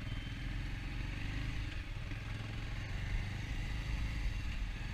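Motorcycle engine running steadily as the bike rides off; a Bajaj Avenger's single-cylinder engine.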